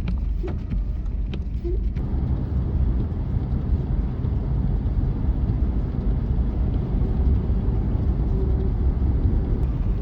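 Vehicle driving, a steady low rumble of engine and road noise, which becomes fuller and steadier about two seconds in.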